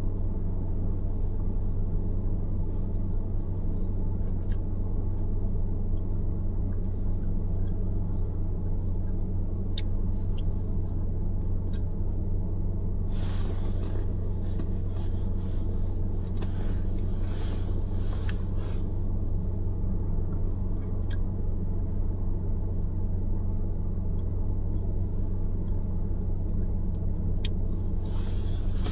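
A car driving on city roads, heard as a steady low rumble of engine and road noise. About halfway through, a louder rushing noise swells up twice for a couple of seconds each time, and once more near the end.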